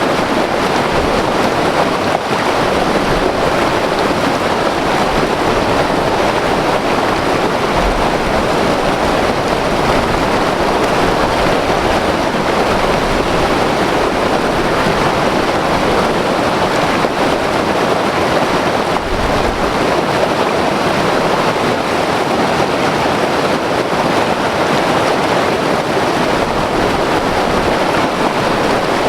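White-water river rushing, a loud, steady, unbroken wash of water noise.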